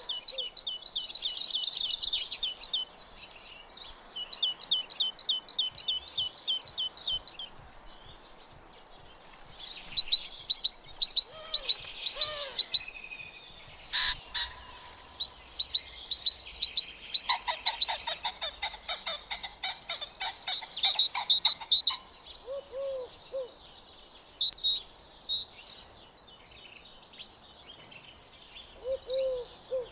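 Songbirds singing: rapid, high-pitched trills and chirped phrases repeated in bursts of a few seconds.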